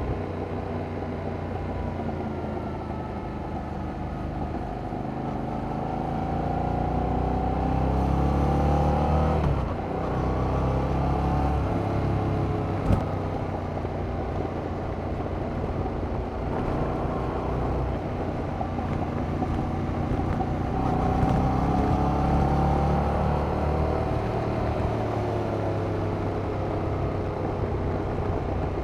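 A Yamaha MT-07's 689 cc parallel-twin engine running through the original, unmodified exhaust as the bike rides along. The pitch climbs under acceleration, drops sharply about nine and a half seconds in as the throttle is closed, then rises and falls again further on. There is one sharp click about thirteen seconds in.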